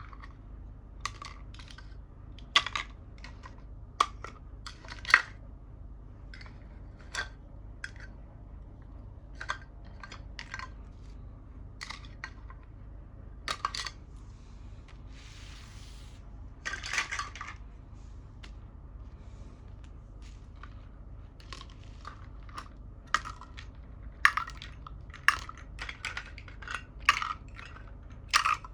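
Small plastic toy pieces being handled and set down on a glass surface: irregular sharp clicks and taps, with a brief rustle about halfway through.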